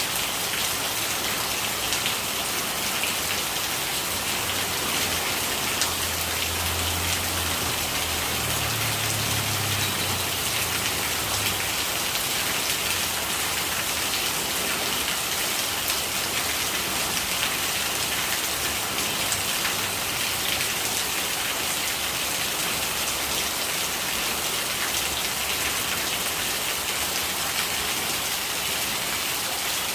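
Steady rain falling, an even unbroken hiss of rainwater, with a faint low rumble for a few seconds about six seconds in.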